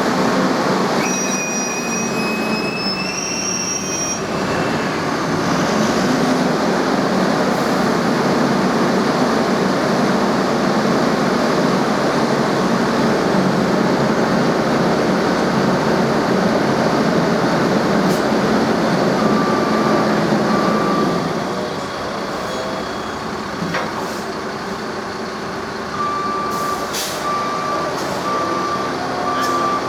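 Heavy vehicle engine running, with a brief high whistle-like squeal a second or two in. About two-thirds of the way through, the engine noise drops and a reversing alarm starts beeping steadily.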